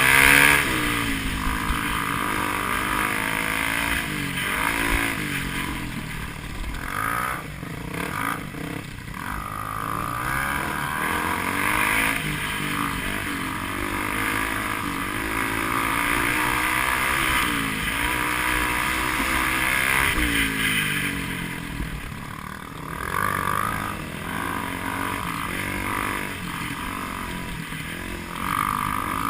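Dirt bike engine revving up and down over and over, its pitch repeatedly rising and falling as the motorcycle is worked over rough ground.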